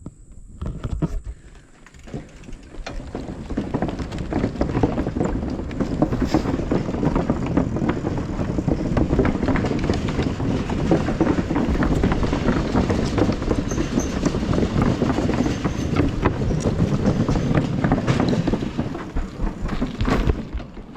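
Bicycle ridden over a rough trail: a dense rattling rumble of tyres and frame that builds about two seconds in and eases off near the end.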